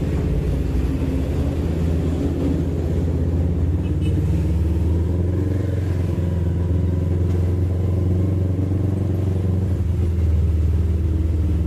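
Yamaha MT-25's parallel-twin engine idling steadily, with no revving.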